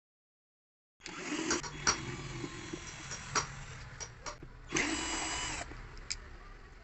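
12V mini cordless screwdriver drill running, its motor whirring with scattered clicks. A louder, whining run of the motor comes about four and a half seconds in.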